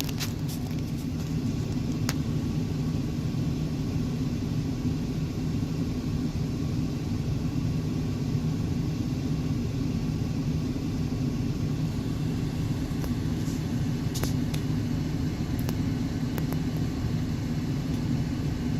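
Steady low rumble of a car driving, engine and road noise heard from inside the cabin, with a couple of faint clicks.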